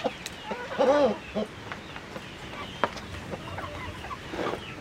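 Chickens clucking, with the loudest call about a second in and more calls near the end; a single sharp click sounds near the middle.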